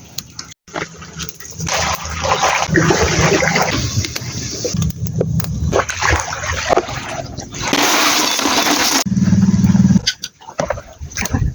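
Water splashing and rushing, with a low rumble underneath. The sound changes abruptly several times, with brief dropouts and a sharper hissing burst about eight seconds in.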